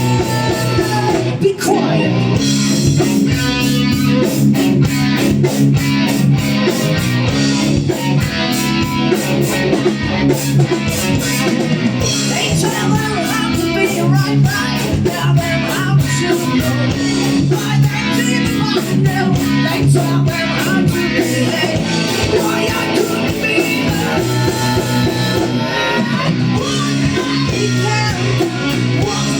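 Live rock band playing, with guitars and a drum kit.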